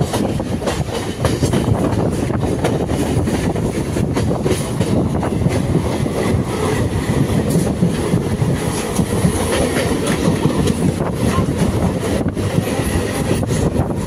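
Electric suburban local train running at speed, heard from its open doorway: a steady wheel-on-rail rumble with rapid clicks over rail joints and points. Another local train passes close by on the next track.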